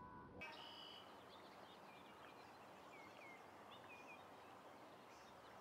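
Faint outdoor ambience from about half a second in: small birds chirping in short, quick calls over a steady low hiss.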